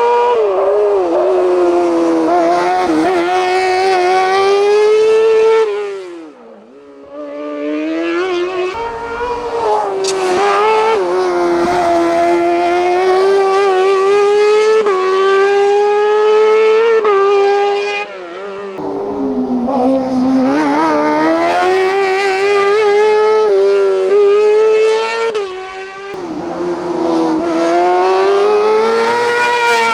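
Hillclimb race car engine at full throttle, revs climbing through the gears with quick drops at each shift. About six seconds in the throttle comes off and the note falls away briefly before it builds again, and there are further gear changes later on.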